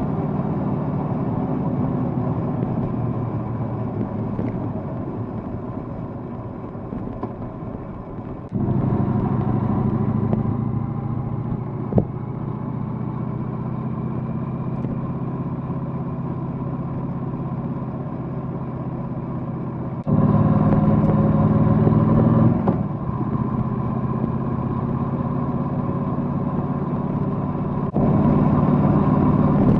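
Triumph Bonneville Bobber's parallel-twin engine running steadily under way, its note stepping suddenly louder about a third of the way in, again for a couple of seconds past the two-thirds mark, and near the end.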